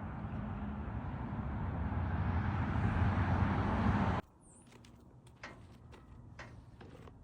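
A motor vehicle running and growing louder as it draws closer for about four seconds, then cut off abruptly; a few faint clicks and knocks follow.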